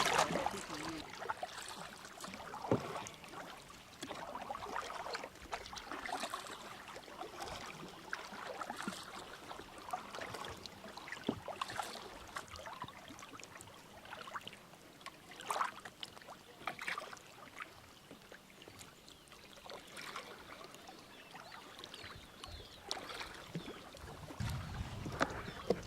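Kayak paddles dipping and splashing in calm sea water, in short irregular splashes every second or two.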